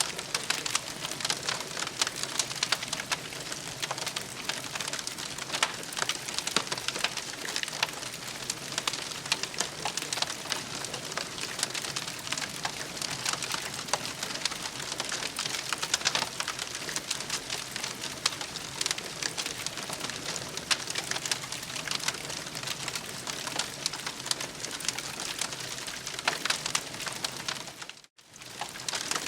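Campfire crackling steadily, many small pops and snaps over a soft hiss. The sound cuts out for a moment about a second before the end.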